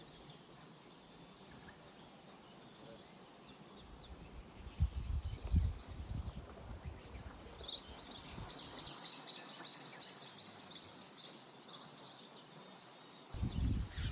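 Small birds singing and chirping in quick repeated phrases over steady outdoor background noise, strongest in the second half. About four seconds in there is a stretch of irregular low rumbling.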